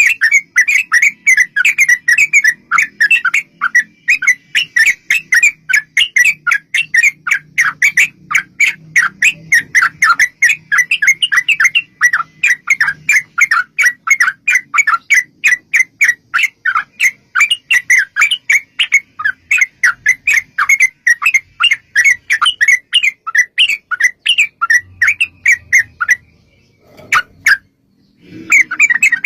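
Yellow-vented bulbul (trucukan) singing a long, rapid string of short chattering notes, several a second, with a brief pause about three seconds before the end before the chatter resumes.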